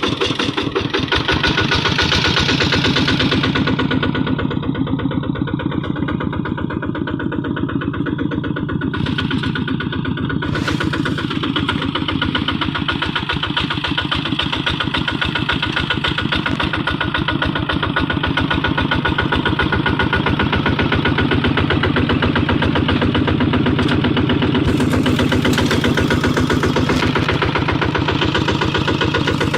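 Kubota RT155 single-cylinder diesel engine of a two-wheel hand tractor, running steadily with a fast, even firing beat.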